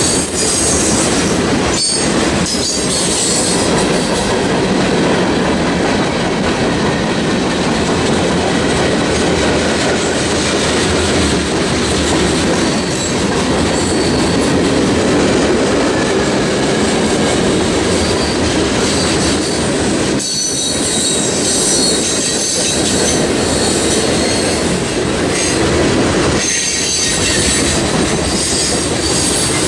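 Mixed freight train of boxcars, covered hoppers and tank cars rolling past close by: a loud, steady noise of steel wheels running on the rails, dipping briefly a few times as the cars go by.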